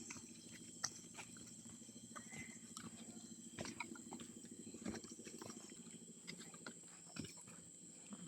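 Faint rainforest ambience: a steady high-pitched insect drone, with scattered light clicks and ticks over it.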